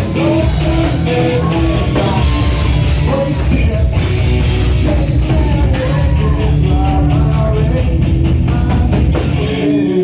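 Live rock band playing loud, with drum kit, distorted guitars and singing; the bass and drums drop out about nine and a half seconds in.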